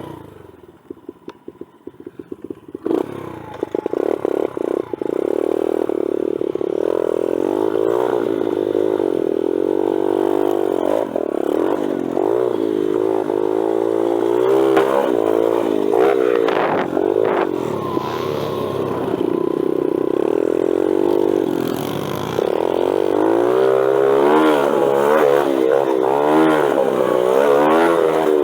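A pit bike's small single-cylinder four-stroke engine being ridden hard around a dirt track, revving up and dropping back again and again, with rattling from the bike. About three seconds in the engine comes in much louder.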